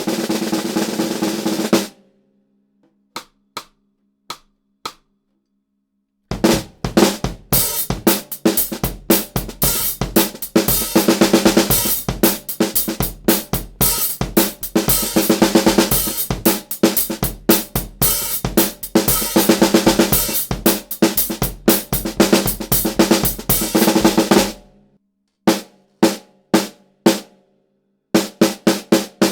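Mapex Black Panther birds-eye maple 13x6 snare drum with a coated head. It plays a short roll, then four soft single strokes, then a long fast beat with bass drum and hi-hats, and ends with a few separate snare hits.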